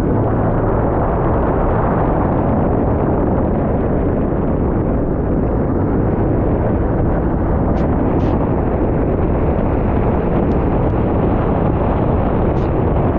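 Sea-Doo personal watercraft under way, its engine and rushing water heard as a steady, loud noise, with wind buffeting the microphone.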